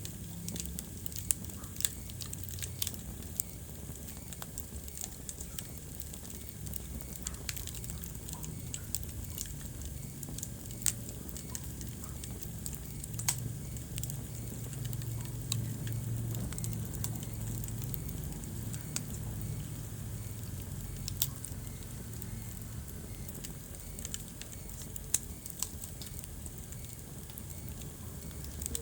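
Wood fire burning in a fireplace, crackling with irregular sharp pops over a steady low rumble of flame. The rumble swells a little about halfway through.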